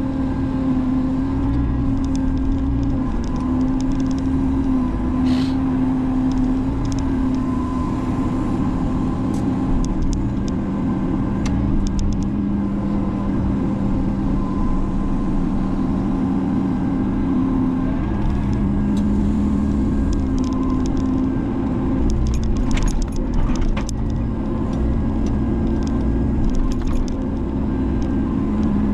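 Menzi Muck spider excavator running steadily under work, its engine and hydraulic drone shifting between two pitches, with a few short clicks and knocks, the sharpest about five seconds in and between about 22 and 24 seconds.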